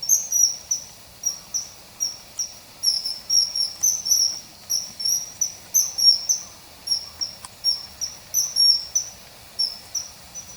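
Grey wagtail calls: a quick, continuous series of short, sharp, high chirps, about three or four a second, each dropping slightly in pitch.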